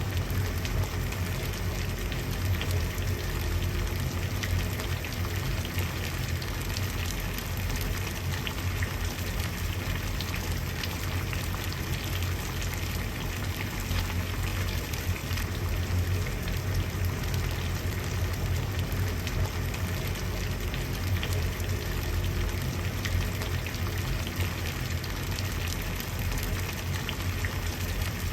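Water boiling, bubbling steadily with a low rumble underneath and fine crackling on top.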